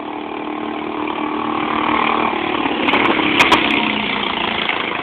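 Small engine of a mini monster truck go-kart running as it drives up, getting louder and dropping in pitch as it comes close, then fading as it moves off. A few sharp clicks sound about three and a half seconds in.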